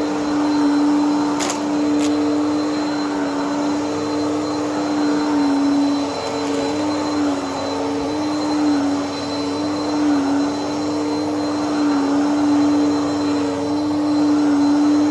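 Upright vacuum cleaner running steadily, its motor pitch dipping slightly every second or two as it is pushed back and forth over the floor. Two sharp clicks near the start, about a second apart, as debris is sucked up.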